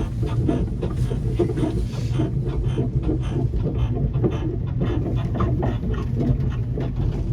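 Small pier train running, with a steady low drone from its motor and a continuous clatter and rattle as it travels along the pier.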